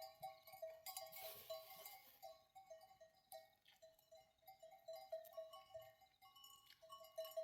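Bells on a grazing sheep flock clinking faintly in a quick, irregular patter, with a brief hiss about a second in.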